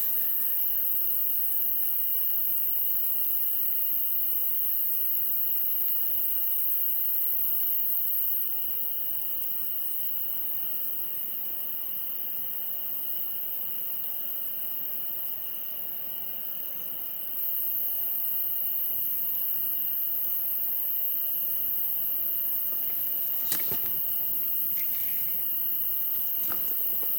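Insects chirring in a steady, high-pitched drone with a thin, even whistle-like tone under it; about two-thirds of the way in a regular chirp of roughly two pulses a second joins for a few seconds. Two sharp clicks come near the end.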